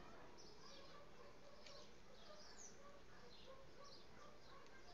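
Near silence, with faint birds chirping now and then in the background.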